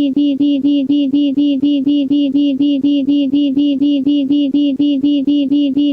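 Google Translate's text-to-speech voice rapidly repeating one short syllable over and over at a steady pitch, about six times a second.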